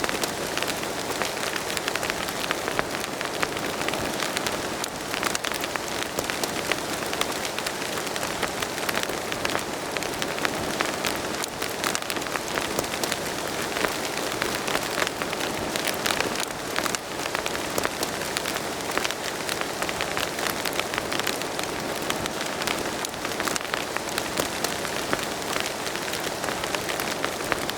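Steady spring rain pattering: a constant hiss of rainfall with many sharp individual drop hits all through it.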